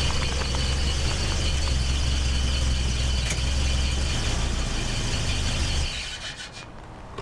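Car engine running with a steady low drone and a faint high, steady whine. It cuts out about six seconds in, and a few sharp clicks follow near the end.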